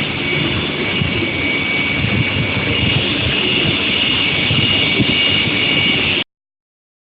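Steady, loud industrial noise from a steel sheet hot-rolling line with its electric heating furnace: a rumbling noise bed with a constant high-pitched whine on top. It cuts off suddenly about six seconds in.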